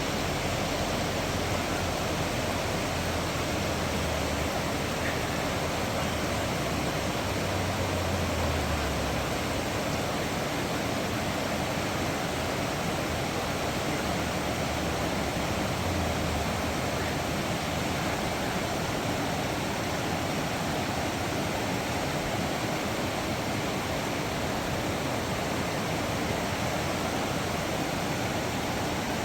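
Steady rush of falling water from a waterfall or creek, an even, unbroken roar at a constant level, with a few low thuds about a quarter of the way in and again near the middle.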